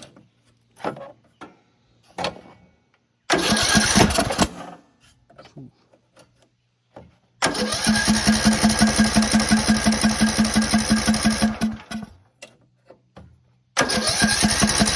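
A small lawn tractor engine being started in three tries, fitted with a replacement flywheel that is missing some of its magnets. It turns over with an even rapid pulsing: a short try of about a second, a longer one of about four and a half seconds in the middle, and a third starting near the end.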